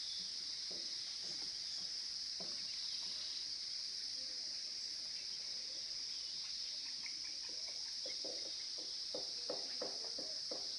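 Steady, high-pitched chorus of insects droning without a break, with a run of faint short sounds underneath in the last few seconds.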